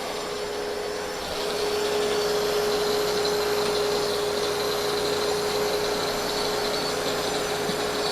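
Brick chamfering machine grinding a bevel onto keystone bricks: a steady motor hum under a harsh grinding hiss, getting louder about a second in.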